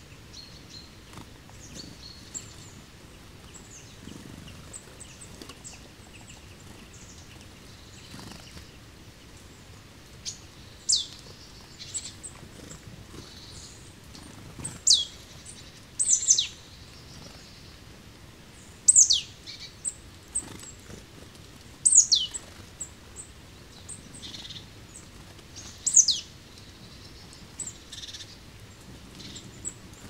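A small songbird calling: about six sharp, very high, thin calls, each falling steeply in pitch and lasting well under half a second, spaced a few seconds apart through the middle and later part, with fainter high chips between them.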